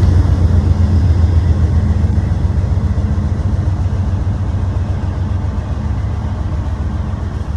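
Train running with a loud, steady deep rumble that slowly gets quieter; no high brake squeal stands out.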